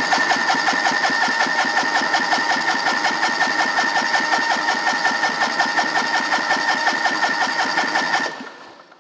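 John Deere LX188's Kawasaki FD501V V-twin engine being turned over by its electric starter for a cold compression test, not firing: a steady starter whine with an even rhythmic chug from the cylinders' compression strokes. It stops about eight seconds in. The starter-side cylinder reads 223 psi, nice and even with the other side.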